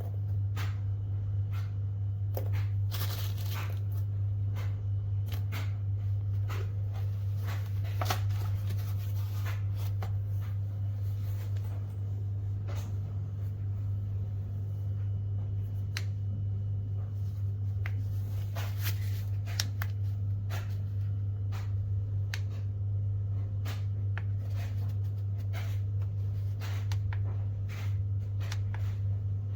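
A steady low hum runs throughout, with many scattered clicks and rustles of objects being handled.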